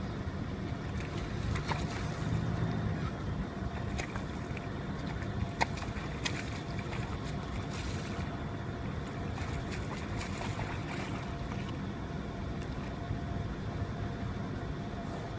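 Water splashing, with scattered sharp splashes and drips over a steady rush of wind on the microphone.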